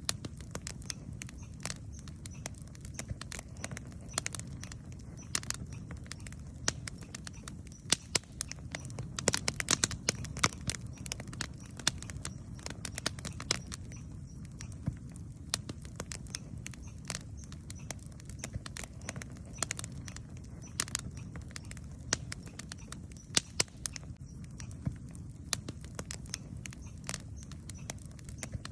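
Wood campfire crackling and popping in irregular sharp snaps, over a steady low rumble; the pops come thickest about nine to eleven seconds in.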